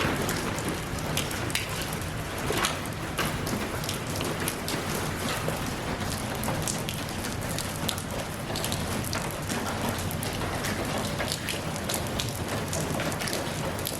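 Steady rain falling, with many distinct drops ticking on a surface over the even hiss.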